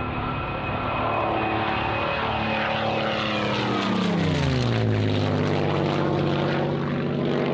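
E-flite Air Tractor 1.5m RC model's electric motor and propeller buzzing steadily in flight; about halfway through the pitch glides down and then holds lower.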